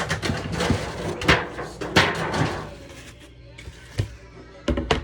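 Kitchen handling clatter: a stretch of rustling and clattering with two sharp knocks, then a quieter spell broken by single knocks about four seconds in and near the end. Music plays faintly underneath.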